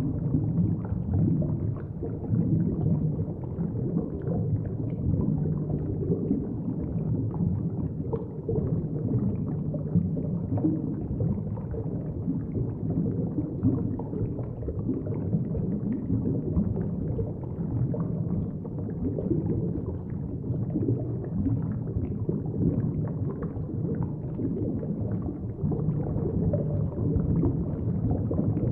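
Steady muffled rumble of moving water heard from below the surface, with many small crackles and pops scattered through it.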